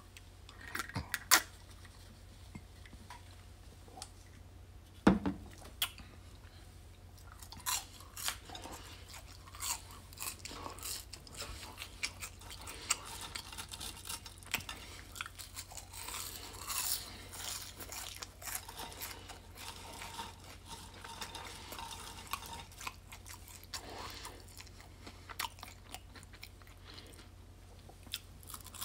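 Close-up mouth sounds of someone chewing and crunching french fries, with irregular crackles and clicks. Two sharp knocks, about a second in and again about five seconds in, are the loudest sounds.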